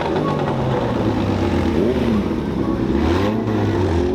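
A car engine running with a steady low rumble, its pitch shifting slightly about three seconds in, with crowd voices in the background.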